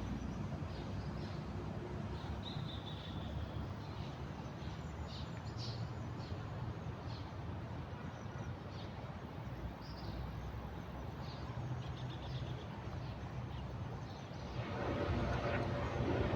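Small wild birds chirping now and then in short, high notes, one a slightly longer whistle about two to three seconds in, over a steady low outdoor background hum. Near the end a low noise swells louder.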